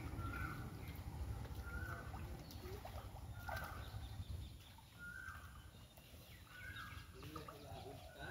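A bird repeating a short, slightly rising call about every one and a half seconds, over a steady low rumble.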